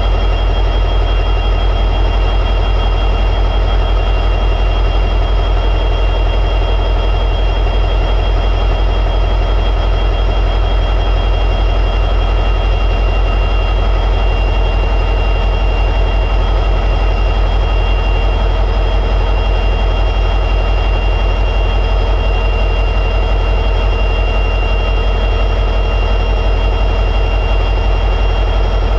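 EMD 710G3B two-stroke diesel prime mover of an SD60E locomotive idling steadily in high idle, a deep even drone with a steady high whine over it.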